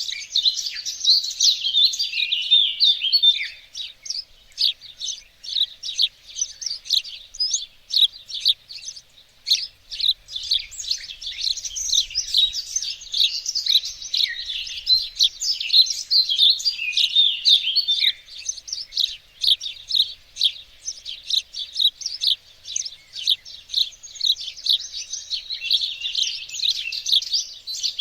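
Songbirds in a garden chirping and singing: a dense, continuous chorus of short high notes and trills, thinning briefly a few seconds in before filling out again.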